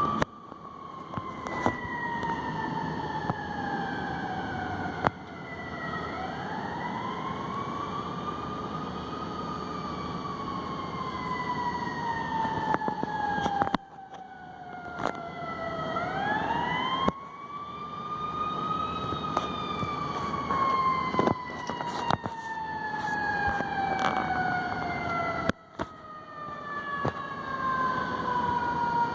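Fire truck siren wailing. Its pitch climbs quickly and then falls slowly, in cycles of roughly ten seconds, over the low rumble of traffic.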